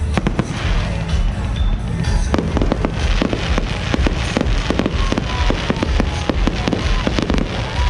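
Aerial fireworks bursting in quick succession: a rapid run of sharp bangs and crackles, thickest from about two seconds in.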